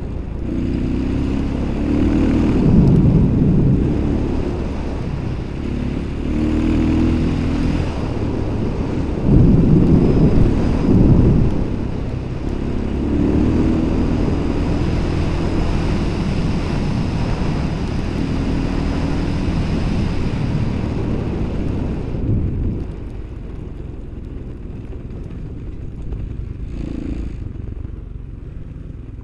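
A vehicle engine running under way, its pitch rising and falling as it revs, over a rumble of noise. It drops noticeably quieter about three-quarters of the way through.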